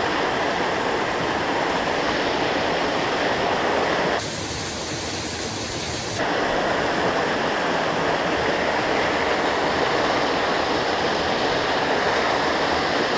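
Steady rushing of a mountain stream's waterfall. For about two seconds, starting around four seconds in, its tone changes: slightly quieter and hissier.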